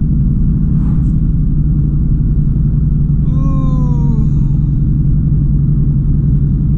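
Steady low engine rumble, with a short call that falls in pitch about three seconds in.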